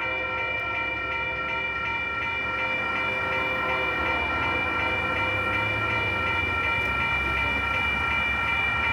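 Railroad crossing warning bells ringing steadily as a set of sustained tones, with the low rumble of approaching Union Pacific locomotives growing louder from about halfway through.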